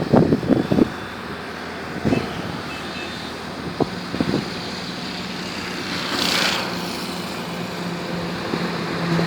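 Steady road traffic noise, with a vehicle swelling past about six seconds in; a few short knocks in the first second.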